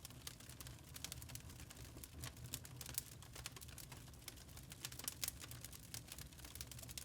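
Fireplace fire crackling: irregular sharp snaps and pops, several a second, over a low steady rumble.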